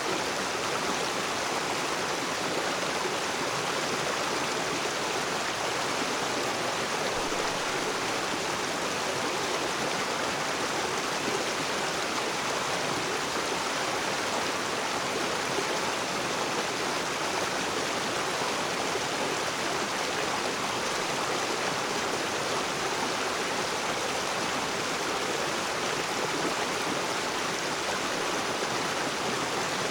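River water rushing and splashing over rocks, a steady even rush with no change.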